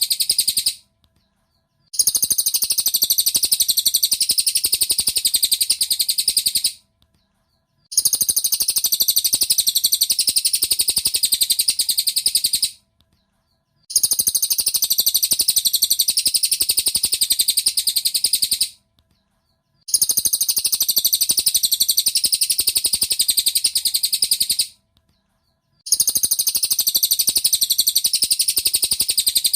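Cililin bird song used as a masteran tutoring recording for cage birds: a fast, high, dense twittering in bouts of about five seconds, each cut off by about a second of silence, repeating at an even pace.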